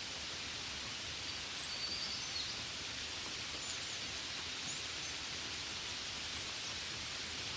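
Gentle rain falling steadily, an even hiss without pauses. A few short, faint high chirps sound over it between about one and a half and five seconds in.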